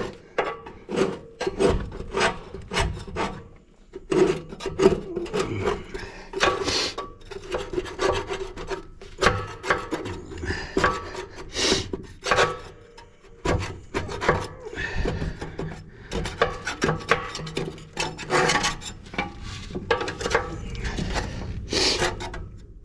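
Rapid, irregular scraping and rasping strokes against the stove's back brick as it is worked on.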